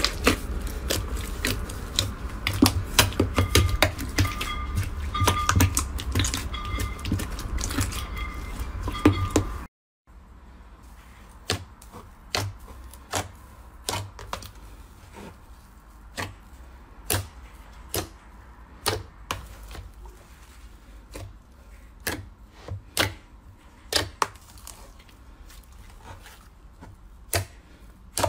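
Slime being squeezed and poked, making dense crackling clicks and pops. After a sudden cut about ten seconds in, it turns to quieter, sparser sharp pops about once a second.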